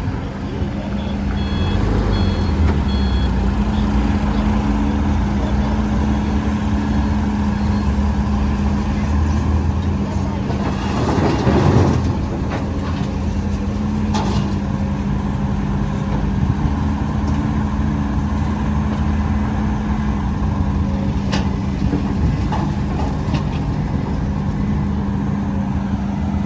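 Heavy diesel earthmoving machinery running steadily under load, an excavator and dump trucks at work. A few short high beeps come early on, and a loud hiss swells and fades about eleven seconds in.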